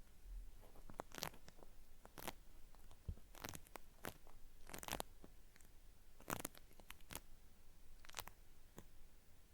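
Cotton swab worked in the ear of a binaural microphone, giving irregular crackly, peeling-like scratches and crackles close to the ear.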